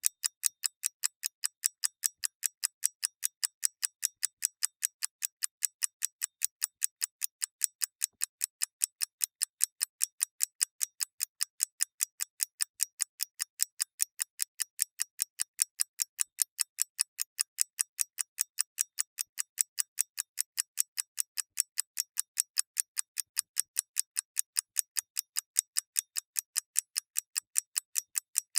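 Mechanical clock ticking: rapid, evenly spaced sharp ticks, a few a second, steady and unchanging.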